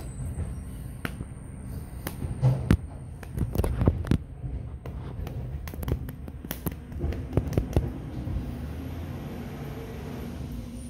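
Garbage truck at work: a low engine rumble with a run of sharp bangs and clanks in the middle, then a steadier hum.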